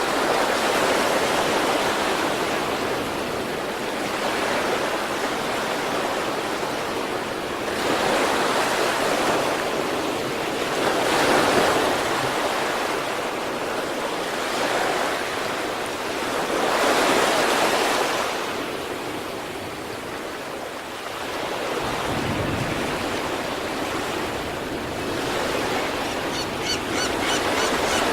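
East Sea surf: waves breaking and washing up on the shore, the rush swelling and easing several times.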